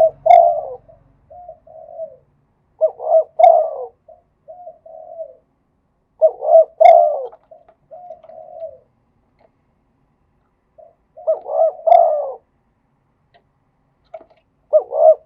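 Spotted dove cooing in repeated phrases, each a few loud rolling coos followed by softer, shorter coos, with a pause of a few seconds between phrases.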